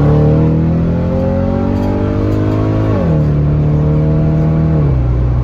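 2009 Chevrolet Corvette C6's 6.2-litre V8 accelerating hard, its note rising steadily, then dropping sharply as the automatic transmission upshifts about three seconds in, rising again and dropping with a second upshift near the end.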